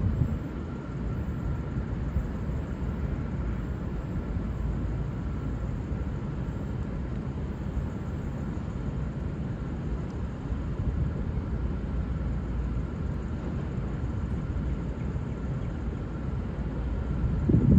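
V/Line VLocity diesel railcar set running, a steady low rumble with no horn sounding.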